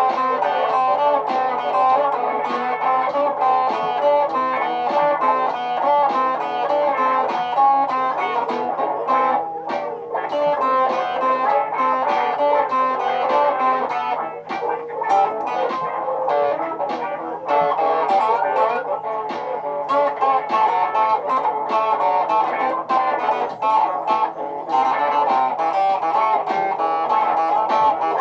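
Guitar playing layered, looped parts: dense picked and strummed notes with sharp attacks, repeating over a steady low hum.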